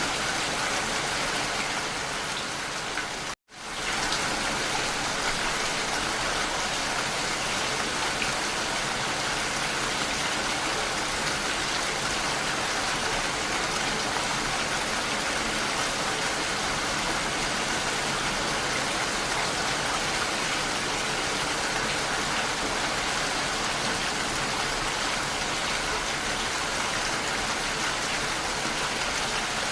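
Steady rain, a dense even hiss. About three seconds in it cuts out for a moment and fades straight back in, like a splice in the recording.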